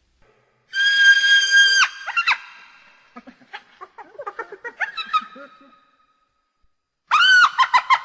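Hyena laughing: a high-pitched squeal held for about a second, then a run of short yelping, chattering notes. Near the end comes a burst of rapid staccato giggling notes.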